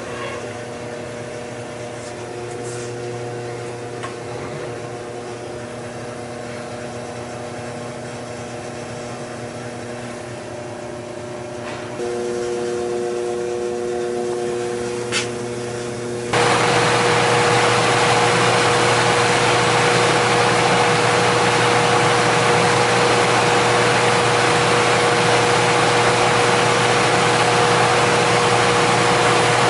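Belt-driven blower of a gas-fired lowboy furnace running on a newly replaced motor pulley: a steady machine hum with several fixed tones. About halfway through it suddenly gets much louder, a steady rushing of air over the same hum.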